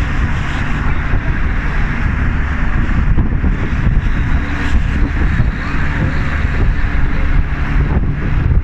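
Wind buffeting the microphone with the rushing road noise of a moving car, loud and steady, with no break.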